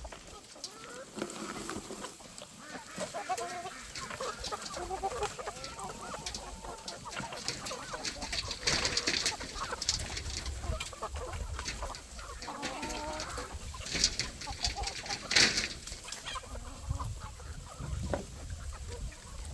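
A flock of free-range chickens clucking and calling, with rustling and a few louder scuffs, strongest around halfway and again near the end.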